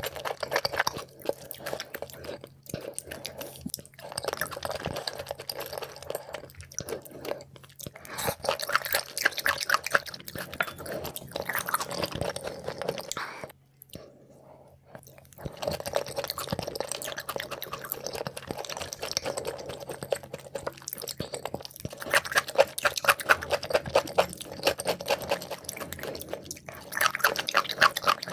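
Close-miked chewing of raw beef liver dipped in sesame-oil sauce, with dense quick mouth clicks and a brief break about halfway through.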